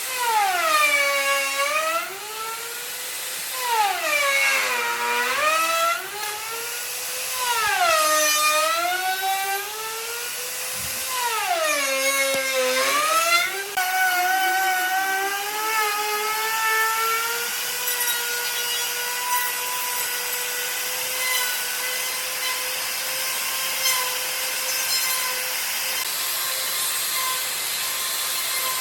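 Electric power tool working wood. Its motor pitch sags deeply and recovers about four times as it takes load, then holds a steady pitch for the second half.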